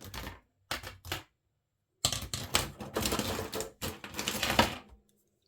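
Rummaging through a box of spare parts: small hard parts clattering and clicking together, in a few short bursts and then a longer stretch of busy clatter.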